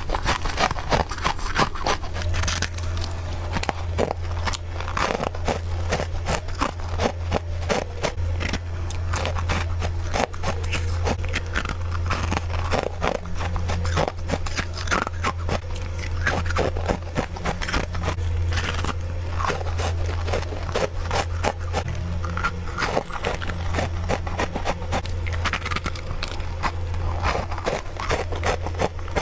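Freezer frost being bitten and chewed in quick succession: a dense run of crisp crunches one after another, over a low steady hum.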